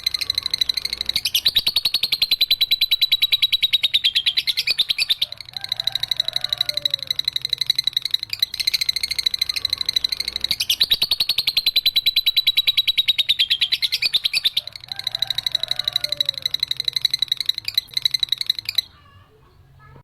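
Young lovebird giving its long 'ngekek' chatter: a very rapid, high-pitched trill held for long stretches, with short breaks about five and fifteen seconds in, stopping about a second before the end.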